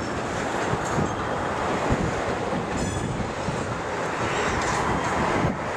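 Freight train of crude-oil tank cars rolling past on the rails with a steady rumble of wheels on track; a brief high squeal comes about three seconds in.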